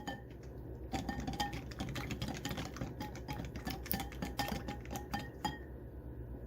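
Small toy monster truck clinking and knocking against a bowl as it is handled in the wash water, a quick run of small taps and clinks starting about a second in and stopping about a second before the end.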